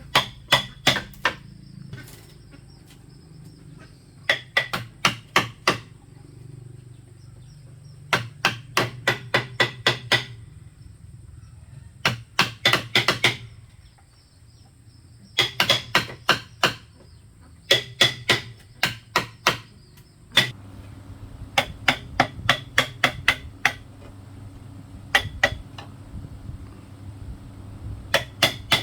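Hammer blows on bamboo in quick bursts of about four to eight strikes, a new burst every few seconds, each blow with a short ring.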